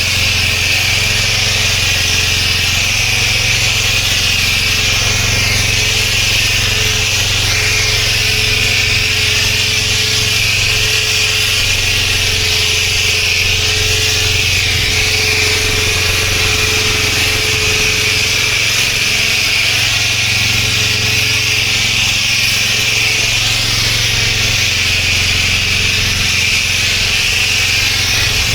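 Pressure washer running steadily: a loud, even hiss of the high-pressure water jet spraying, over the low steady drone of the machine.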